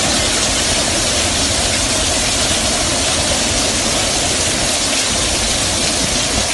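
Severe thunderstorm: a steady roar of heavy rain and strong wind, with gusts buffeting the microphone.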